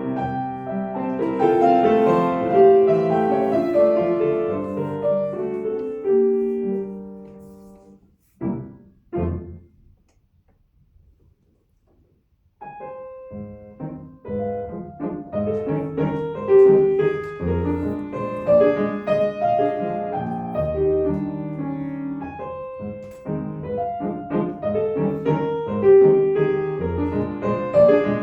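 Solo piano playing classical music: a passage dies away, two short chords follow, then a pause of a couple of seconds before the playing starts again and carries on.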